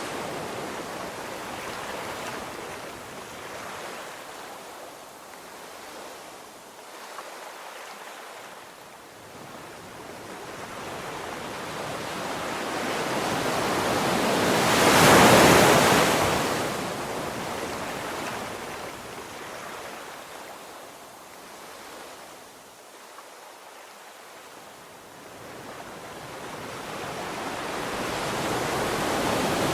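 Ocean waves breaking on a beach, the surf rising and falling. One wave crashes loudest about halfway through, and the next builds near the end.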